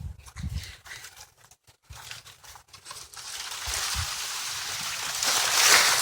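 Rustling and crunching of dry leaves and brush underfoot on a woodland trail, growing louder through the second half.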